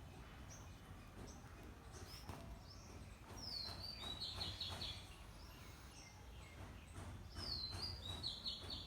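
A bird singing twice: each phrase is a falling whistle followed by a quick run of repeated notes. Shorter chirps come between the phrases, over a low background rumble.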